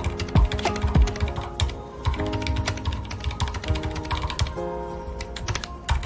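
Typing on a mechanical keyboard with red linear switches. Keystrokes come quickly in the first couple of seconds, then more scattered, over background music with held notes.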